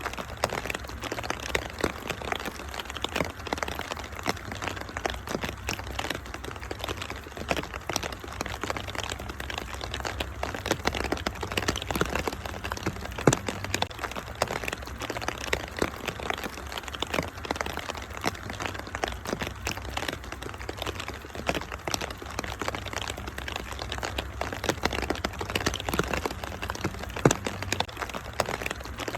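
Wood fire crackling in a fireplace, with many sharp pops and snaps scattered through, over a steady hiss of rain and a low, even rumble.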